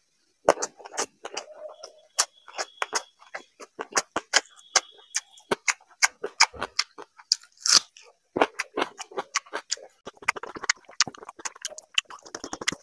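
Close-up mouth sounds of eating water rice (panta bhat) by hand: wet chewing, lip smacks and tongue clicks in a rapid, uneven series, with a brief breathy hiss a little past halfway.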